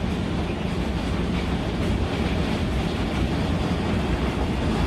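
Torrential downpour of hail and rain: a steady, dense noise with a deep rumble underneath.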